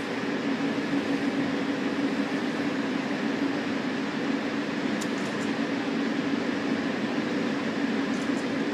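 Electric metre-gauge MOB panoramic train running steadily along the line, heard from inside the lead car: a constant rumble with a steady low hum.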